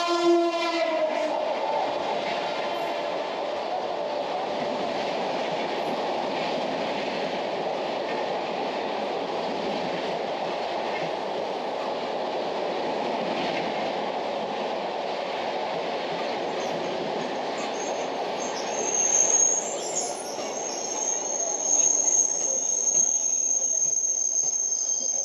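A train horn ends just after the start. Then the Puri–Tirupati Express rolls through the station, its coaches' wheels making a steady rumble on the rails with a few clanks. A high, steady squeal sets in about three-quarters of the way through.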